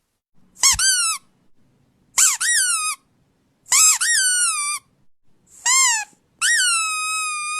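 Rubber squeaky dog toy squeezed five times: high squeaks that slide up and then down in pitch, with short gaps between them. The last squeak is long and held.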